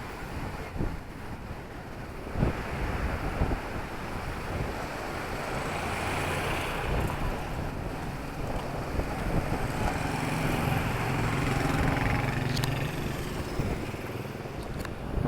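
Small-town street ambience: a steady wash of outdoor noise, with a motor vehicle's engine hum building from about halfway in, peaking near the end and then easing as it passes.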